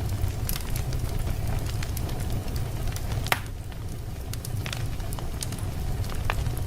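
Wood fire burning in a fireplace: a steady low rumble of the flames with scattered crackles and sharp pops, the loudest pop about three and a half seconds in.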